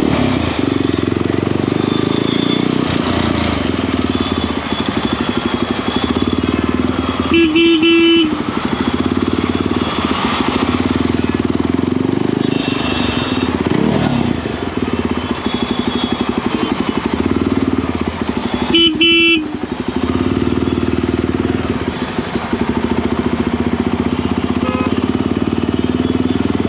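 Motorcycle engine running steadily under way, with wind and road noise. A horn honks twice, briefly, about a third of the way in and again about two-thirds in.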